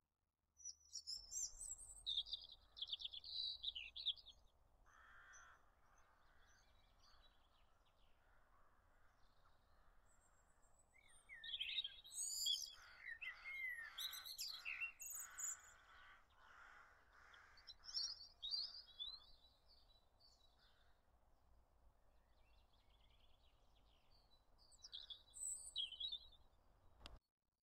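Small birds singing and chirping in quick high phrases that come in short bursts several times, over a faint steady low hum.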